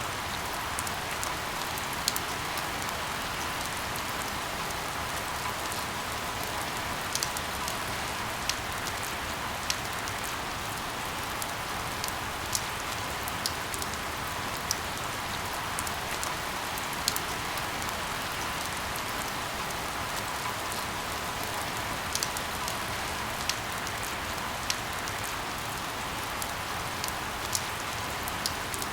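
Steady rain hiss with scattered sharper ticks of single drops landing close by, a few every few seconds.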